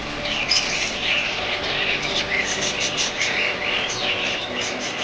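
A flock of budgerigars chattering and chirping continuously, many short overlapping chirps and warbles.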